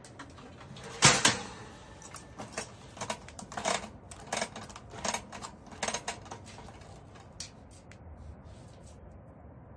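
A run of sharp knocks and clicks, as of hard objects being handled or set down: one loud knock about a second in, then a dozen lighter irregular clicks over the next five seconds before it goes still.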